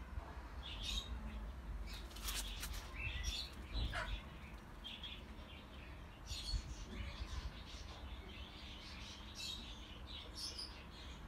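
Small birds chirping in short high calls scattered throughout, with one falling call about four seconds in, over a low steady rumble.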